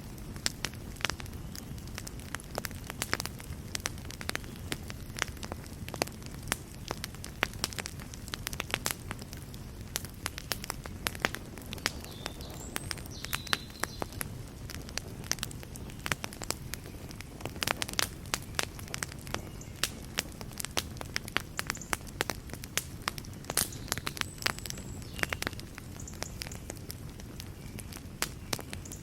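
Fire in a fireplace crackling, with many sharp, irregular pops over a steady low rumble of flame.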